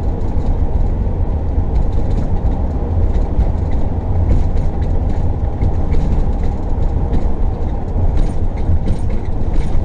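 Steady low road and engine rumble inside a moving RV's cab, with light scattered rattling clicks.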